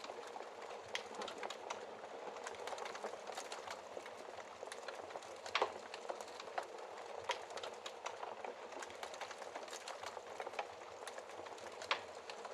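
Wood fire in a fireplace crackling: a steady soft hiss with frequent irregular pops and snaps, the sharpest about halfway through.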